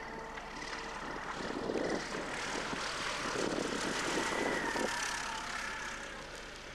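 Propeller-driven light aircraft passing by: its engine and propeller noise swells over a few seconds, peaks, then fades, with the engine note dropping as it goes past.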